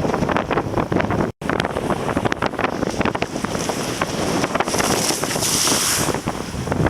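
Strong typhoon wind buffeting the microphone during a kitesurfing ride, with rushing water underneath. The sound drops out for an instant about a second in, and a louder high hiss swells for a couple of seconds near the middle.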